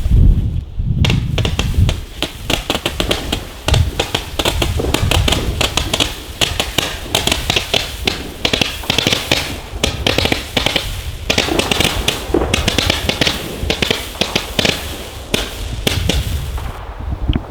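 Small consumer firework battery (Weco Adrenalin star-ball cake) firing continuously: a dense, rapid run of pops and crackles with a couple of brief lulls. It stops about a second before the end.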